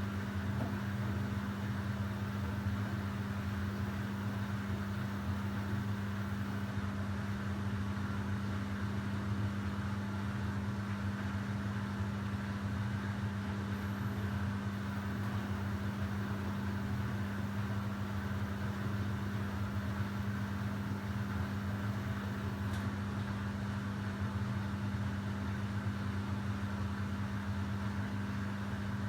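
Samsung WW90J5475FX/AH Digital Inverter washing machine running steadily in its spin cycle: an even hum with a constant tone and no change in speed.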